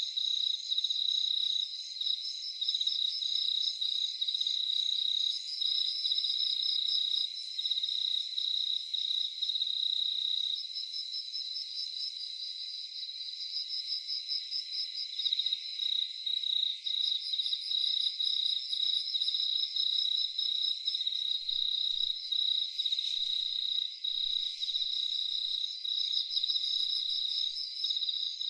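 Crickets chirping in a dense night chorus: one steady high trill with fast pulsed chirps layered above it. The pulsed chirping thins out for a few seconds about halfway through, then picks up again.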